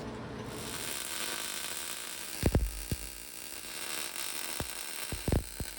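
Arc welding on the steel yoke: a steady hiss starting about half a second in, with several sharp knocks in the second half.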